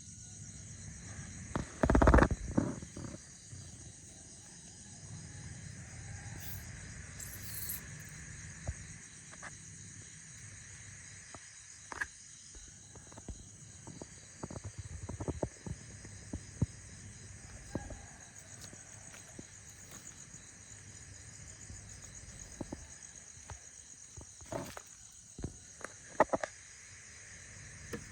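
Insects chirring in a steady high chorus, with scattered clicks and knocks and a louder rustling knock about two seconds in.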